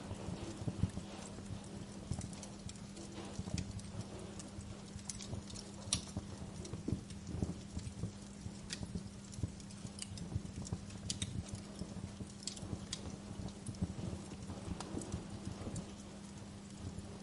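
Wood fire crackling, with irregular sharp snaps and pops and softer low knocks, over a steady low hum.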